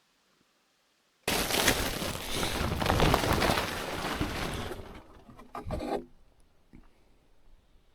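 Rough scraping and rubbing against wood that starts suddenly a little over a second in, runs for about three and a half seconds, then tails off, with a short sharper knock near the end.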